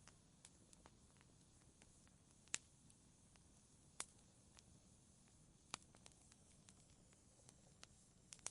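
Fireplace fire crackling: irregular sharp pops, the three loudest about two and a half, four and almost six seconds in, among smaller ticks over a faint low hiss.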